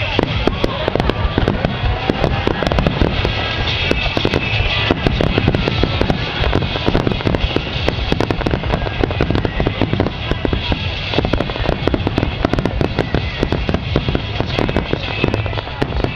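Aerial fireworks going off in a rapid, continuous barrage: many bangs and crackles a second with no break.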